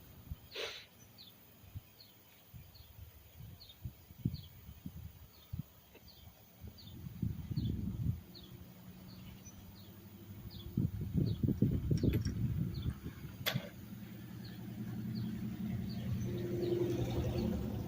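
A short, high, falling chirp repeating about twice a second, like a bird or insect call, over scattered low knocks and rumbles. A steady low hum builds up in the last few seconds.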